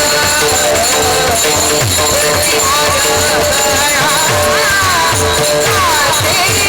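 Devotional kirtan music: a steady harmonium-like drone of held notes, a drum played in a steady rhythm with strokes that drop in pitch, and ringing hand cymbals, with a voice singing wavering melodic phrases through the middle.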